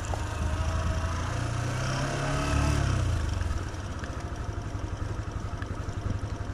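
Motorcycle engine running while riding on a dirt road. It gets quieter about three and a half seconds in and settles into an even pulsing, heading down a steep slope.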